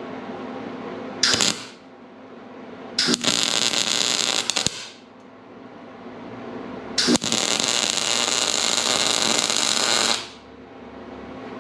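Arc welder striking up three times on a race car's steel tube frame: a short tack about a second in, then a weld of about a second and a half, then a longer bead of about three seconds. Each one is a crackling hiss that starts and stops abruptly.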